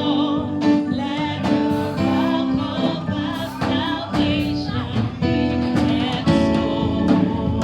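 Worship band playing a slow gospel praise song, with guitar and sustained chords, and voices singing.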